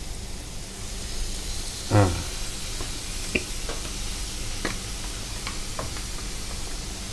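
Stir-fry of angled luffa, egg and minced pork sizzling steadily in a nonstick pan, with a few faint light clicks.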